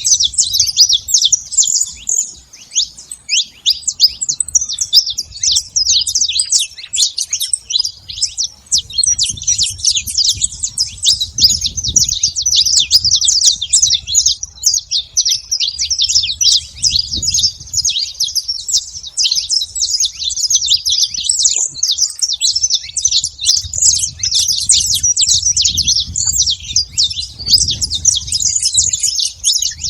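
Saffron finch singing: a continuous, rapid run of high chirping notes with hardly a break.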